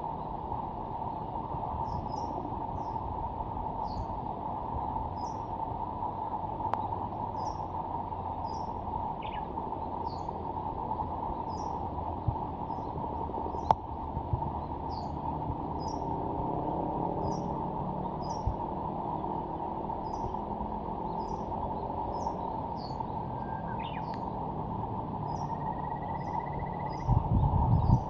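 Small birds calling over a steady rushing background: short high chirps about once a second, and a few clear whistled notes near the end.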